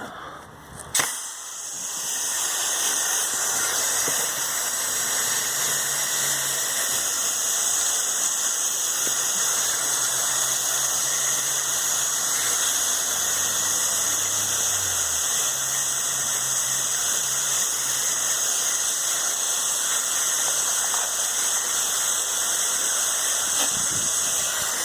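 Pressure-washer wand spraying on its low-pressure soap setting, a steady hiss that starts about a second in, with a faint engine hum from the washer underneath. The lance is laying on a light bleach soap solution before the high-pressure rinse.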